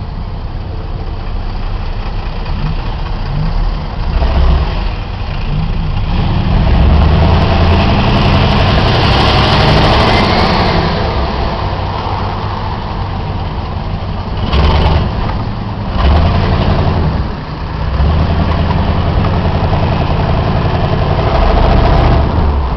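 Chevrolet muscle car engine idling with a deep rumble and revved several times: short blips and two longer pulls.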